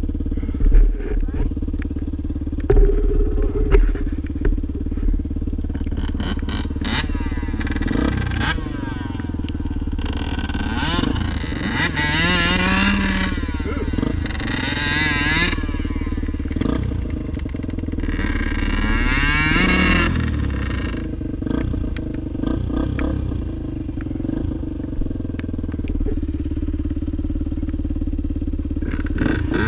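Motorcycle engine running steadily, with the revs rising and falling a few times around the middle.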